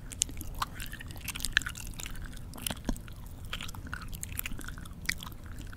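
Close-miked mouth chewing with lip-smacking: irregular wet clicks and smacks several times a second.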